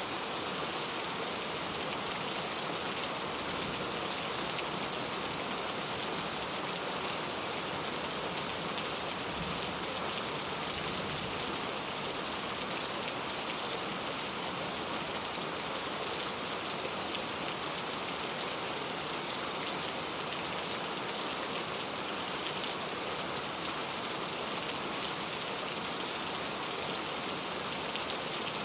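Steady rainfall, with many fine drops pattering on a surface at an even level throughout.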